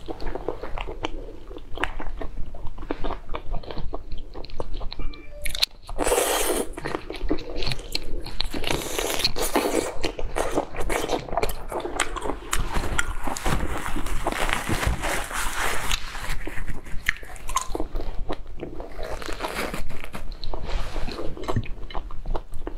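Close-up eating sounds of a whole prawn: the shell cracking and crackling as it is pulled apart by hand, and crunchy, wet chewing. A louder crackling burst comes about six seconds in.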